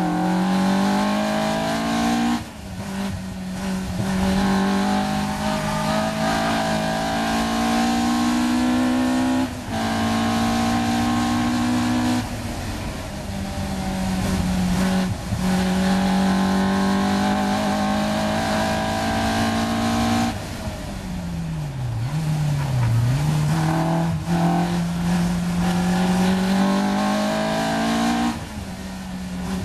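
Caterham R 400's four-cylinder engine heard from the open cockpit at hard throttle on track, its pitch climbing through the gears and breaking off sharply at each upshift. Around two-thirds of the way in it goes off the throttle as the car slows for a corner, the pitch dipping and rising twice on the downshifts, then it pulls hard again.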